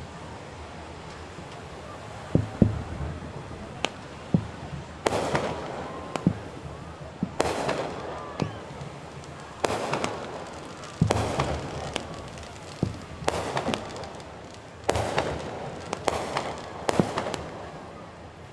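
Fireworks display: a few sharp booms, then shells bursting one after another every second or two, each with a crackling tail.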